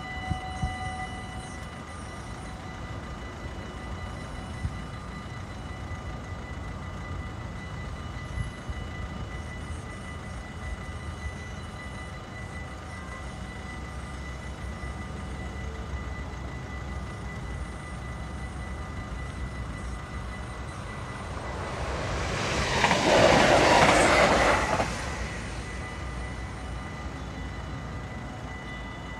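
A train passing through a level crossing: a rush of rail noise builds from about 21 seconds in, stays loud for about three seconds and fades. Before that the crossing's warning bell stops about a second in, once the barriers are down, leaving a low steady rumble.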